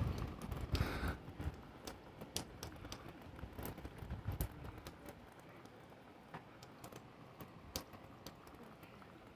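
Raindrops striking an open window's frame and sill in scattered, irregular ticks, over a faint hiss of rain.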